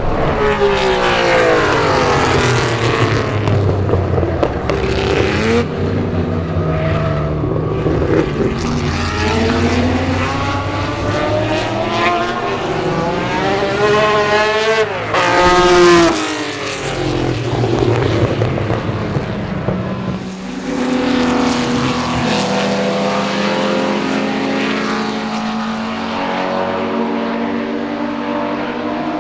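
Ferrari 250-series V12 race cars running hard past the trackside, engine notes rising and falling through the gears and overlapping. The loudest car passes about fifteen seconds in, its pitch dropping as it goes by.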